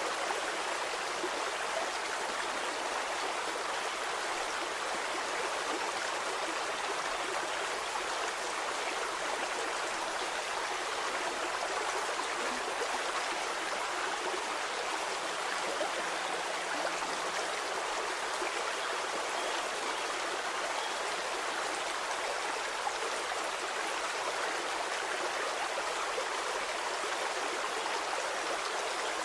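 Stream water flowing steadily over rocks, a continuous even rush with small trickles and gurgles in it.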